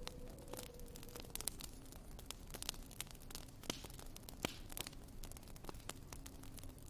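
Wood fire crackling in a fireplace, with irregular sharp pops and snaps over a low steady hiss.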